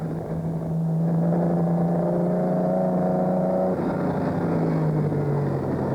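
Austin-Healey sports car's engine running hard at steady revs on the open road. Its pitch drops about two-thirds of the way through and falls again near the end.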